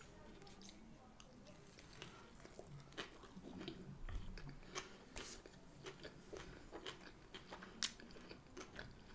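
Quiet close-up chewing of a breaded chicken nugget, with soft crunches and a scatter of small wet mouth clicks.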